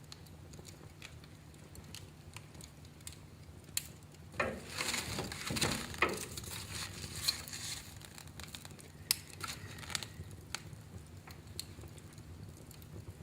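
Wood fire crackling in a fireplace: scattered sharp pops over a low steady rumble, with a denser flurry of crackles about four to seven seconds in.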